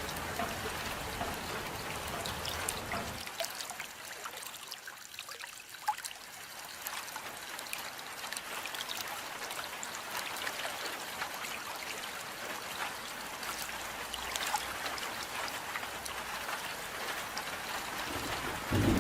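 Rain falling with water trickling and dripping: a steady hiss flecked with small drop taps. The low rumble underneath drops away about three seconds in.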